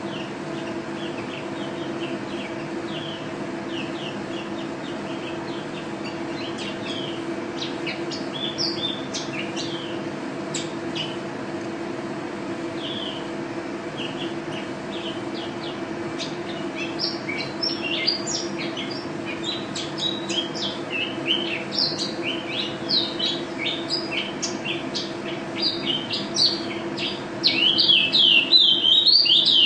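White-eye (pleci) twittering in quick high chirps, sparse at first, growing denser and louder through the second half, with a loud burst of rapid song near the end. A steady low hum runs underneath.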